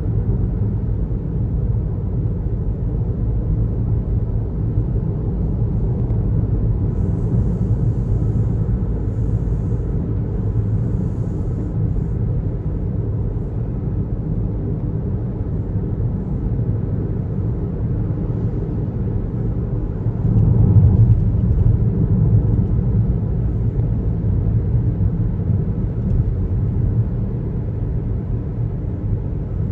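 Steady low rumble of a car driving: tyre and engine noise on the road, swelling louder for a couple of seconds about 20 seconds in.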